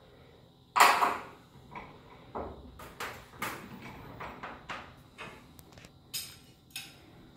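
Steel winding bars clicking and knocking against a garage door torsion spring's winding cone as the spring is wound another quarter turn. There is one louder knock about a second in, then a run of irregular smaller clicks.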